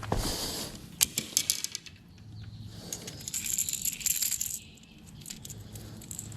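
Rattle-trap lure clicking and rattling as it is handled, with a quick run of sharp clicks about a second in, then a high hiss for about a second and a half.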